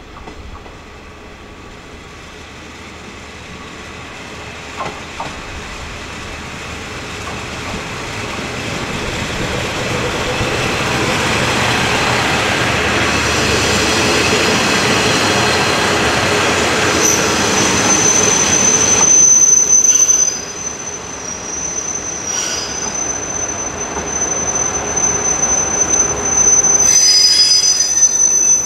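Orange Shokudo two-car diesel railcar pulling into a station. Its engine and wheel noise grow steadily louder as it approaches and runs alongside. A steady high squeal sets in as it brakes toward its stop.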